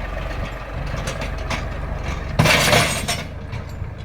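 Tractor engine running steadily with scattered clinks and rattles. A short, loud rush of noise comes about two and a half seconds in.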